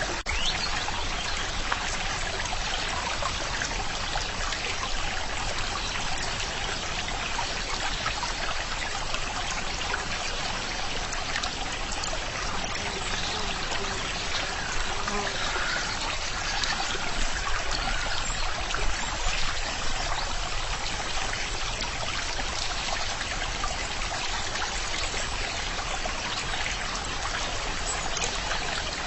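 Running stream water trickling steadily.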